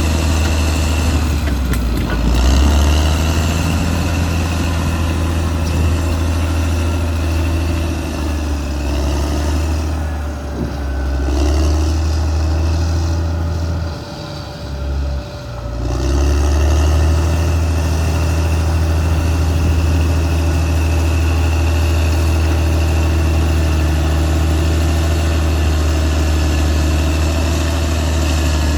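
Caterpillar D6R XL bulldozer's diesel engine running steadily with a deep, low drone. It eases and drops away briefly about halfway through, then comes back up to full running.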